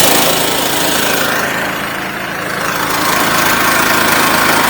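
Portable band sawmill's engine running steadily just after being started, with a slight dip in level about two seconds in before it picks up again.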